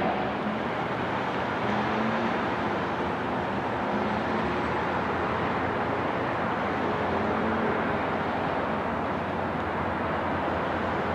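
Long Island Rail Road train running, a steady rumble with a faint low hum coming and going.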